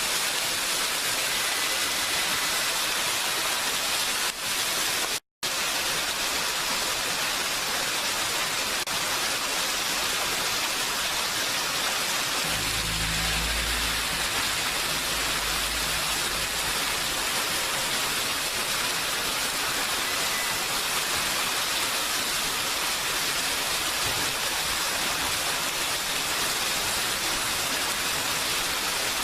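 Steady, even hiss of heavy rain. It cuts out completely for an instant about five seconds in, and a low rumble sits under it for a few seconds midway.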